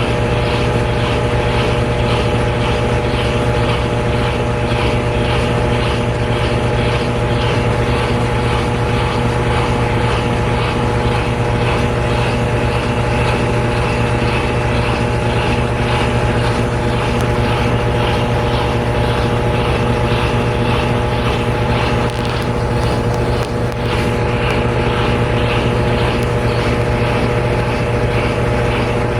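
Washer of a GE Spacemaker GUD24ESSM1WW laundry center in its final spin, the drum and motor running steadily at speed with a constant hum.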